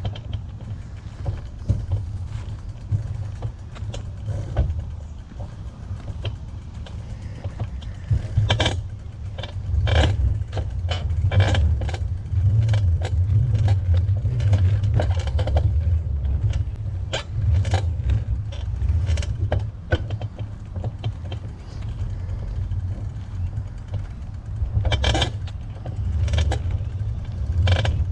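Bicycle in motion: a steady low wind rumble on the microphone with irregular clicks and rattles as the bike runs over bumps, busiest in the middle and again near the end.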